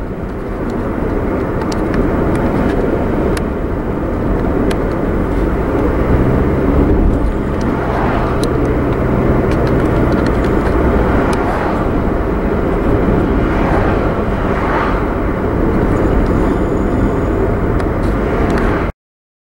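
A car driving along a road: steady engine and tyre noise, with a low engine hum coming through between about six and ten seconds in. The sound drops out for a moment near the end.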